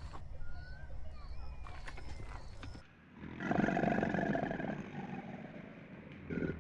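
A large animal growling, a loud, rough, rapidly pulsing roar that starts about three seconds in after a low rumble with a few faint bird chirps.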